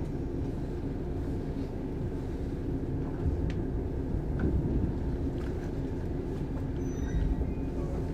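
Steady low rumble and hum inside a Shinano Railway 115 series electric train carriage, with a few faint clicks.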